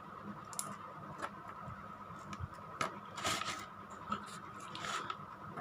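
Toy packaging being handled and opened: scattered clicks and short scraping rustles of cardboard and plastic, busiest a little past the middle and near the end, over a faint steady hum.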